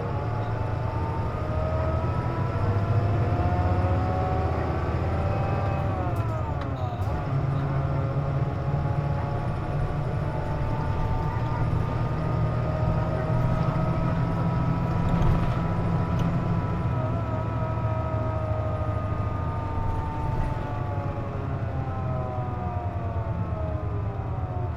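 Inside a KC-JP250NTN city bus on the move: a low engine rumble under a multi-toned whine that rises and falls in pitch with engine speed, dipping sharply about six seconds in. This is the bus's known abnormal noise (異音), which appears when its air conditioning is running.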